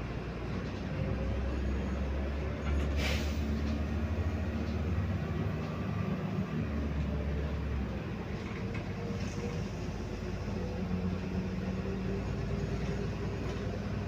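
MAZ 105 articulated city bus under way, heard from inside the passenger cabin: a steady low engine drone, with a short hiss about three seconds in.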